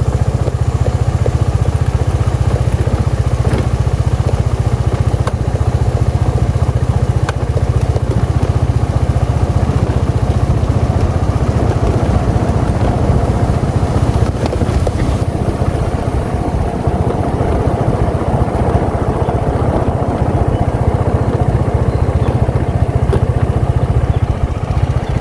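Motorcycle engine running steadily under way, with a loud low rumble.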